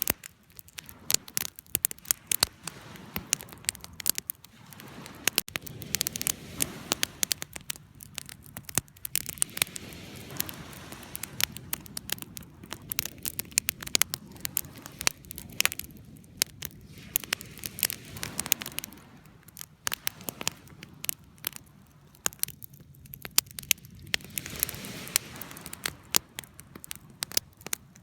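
Wood fire crackling, with many irregular sharp snaps and pops over a soft low rumble of burning.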